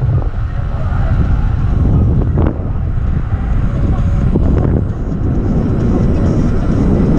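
Electric skateboard wheels rolling over a rough trail, with wind on the microphone. There is a short sharp knock about two and a half seconds in, and a couple more around four and a half seconds in.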